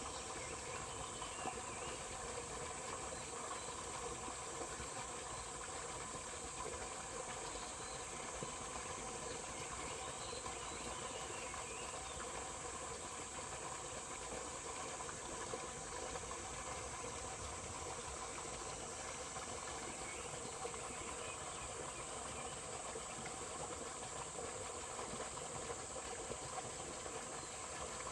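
Steady outdoor ambience of flowing water under a constant high-pitched insect drone, with faint short bird chirps now and then.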